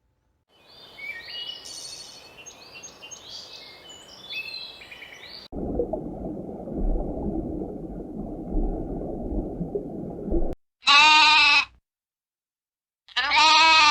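A run of different animal calls, each starting and stopping abruptly: about five seconds of high squeaky chirping, then about five seconds of low, noisy rumbling, then two loud bleats near the end.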